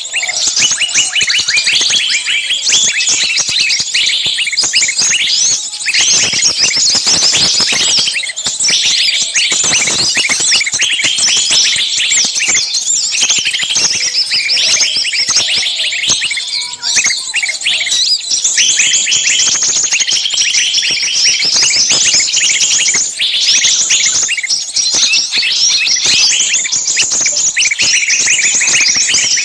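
A dense, unbroken chorus of many small birds chirping and chattering at once.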